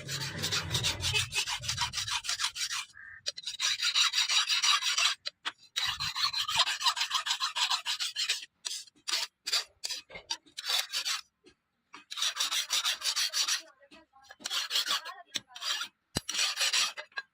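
A steel knife blade being sharpened: quick scraping strokes of metal on an abrasive, in runs of a second or two with short breaks between them.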